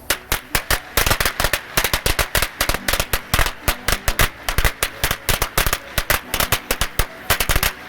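Firecrackers going off in a rapid, irregular series of sharp bangs, several a second, the way a lit string of firecrackers pops.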